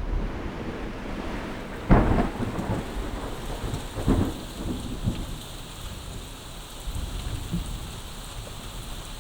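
Steady rain falling, with rumbles of thunder; the loudest comes about two seconds in, another about four seconds in, and fainter ones follow.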